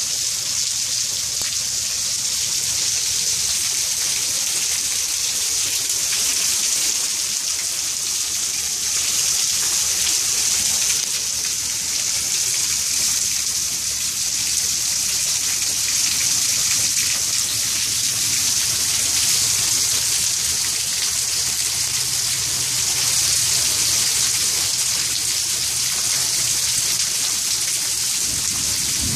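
Steady rain pouring down outside an open doorway, a continuous even hiss with no break.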